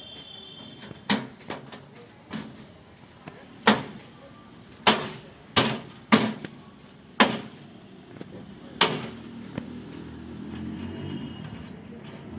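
About eight sharp knocks and clanks at irregular intervals, with lighter taps between, as hands and tools work on the air conditioner outdoor unit's fan housing to get at the loose metal strip that was rubbing the condenser. A low hum builds near the end.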